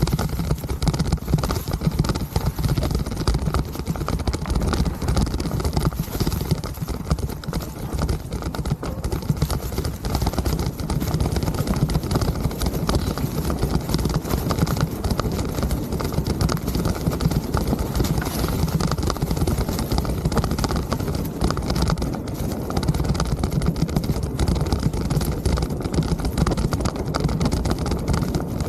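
Mountain bike rolling over rough trail: continuous rapid clattering and rattling from the bike, over a low rumble of wind on the microphone.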